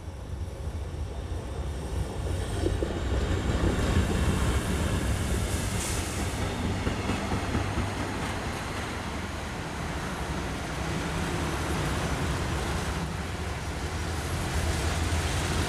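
Electric locomotive passing, followed by a rolling-highway freight train of lorries on low flat wagons rumbling by on the rails. The noise builds over the first few seconds as the train comes close, then holds steady as the wagons roll past.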